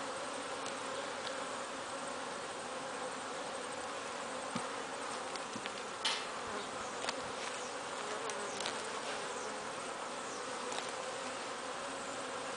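Honeybees buzzing steadily around an open hive, with a few faint clicks, typical of frames being handled.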